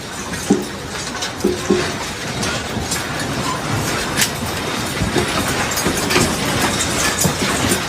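Steady rumbling noise with irregular rattling clicks and knocks, as of objects shaking and clattering in an earthquake.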